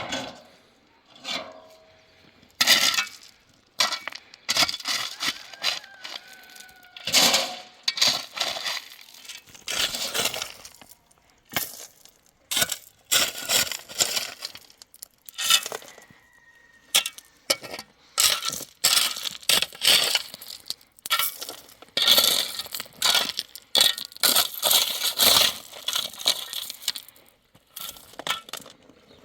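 Irregular clattering and crunching of hard objects, one burst after another with short pauses, some sharp knocks and some longer scraping rushes.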